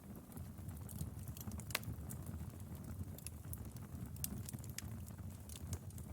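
Wood fire crackling: irregular sharp pops and snaps over a low, steady noise of the burning.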